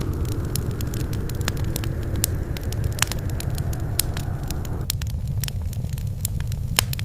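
Wood fire burning in a fireplace: a steady low rumble of flames with frequent sharp, irregular crackles and pops. A softer hiss in the fire cuts off suddenly about five seconds in.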